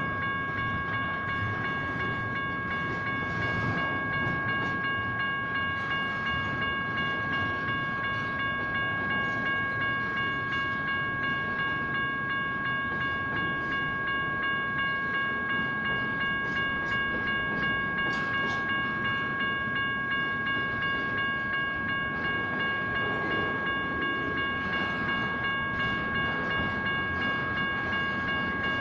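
Railroad crossing's General Signals Type 1 electronic bells ringing steadily in an even, fast pulse, over the rumble and wheel noise of a train rolling through the crossing.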